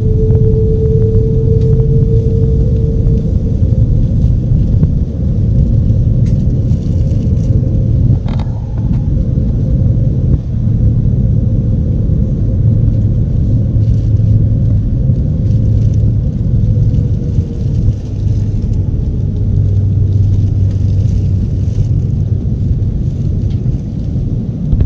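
Steady, loud rumble of a jet airliner's engines and airflow heard inside the passenger cabin, with a faint steady hum strongest in the first few seconds and a short knock about eight seconds in.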